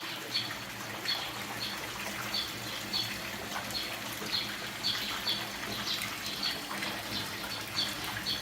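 A bird repeating a short, high, falling chirp about twice a second, over a steady rushing hiss like running water.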